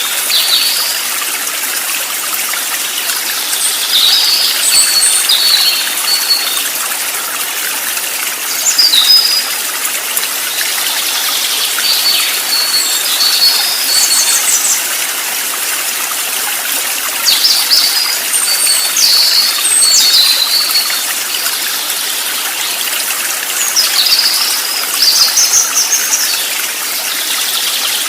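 Steady rush of a flowing stream, with birds singing over it in short bouts of high chirps and trills every few seconds.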